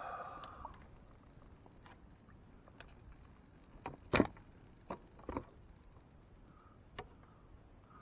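A few scattered knocks and taps on a kayak's hull as gear is handled aboard. The loudest comes about four seconds in, followed by a couple of quicker taps and one last tap near the end.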